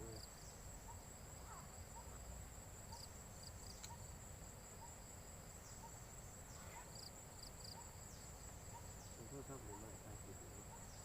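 Faint, steady, high-pitched insect trill, with a soft chirp repeating about twice a second beneath it.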